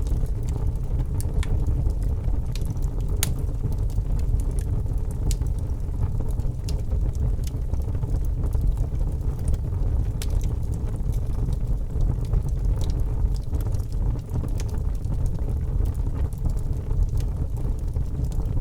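Wood fire burning in a fireplace: a steady low rumble of flames with frequent small crackles and pops at irregular times.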